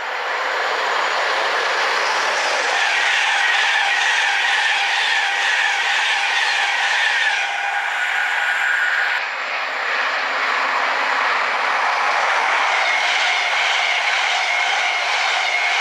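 Train passing close at speed: a loud, steady rush of wheels on rail with some clatter. The sound changes abruptly about nine seconds in.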